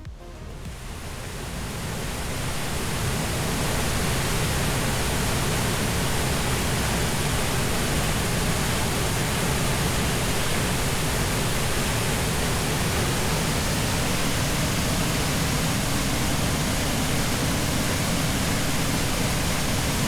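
Waterfall rushing, a loud, steady roar of falling water that fades in over the first few seconds.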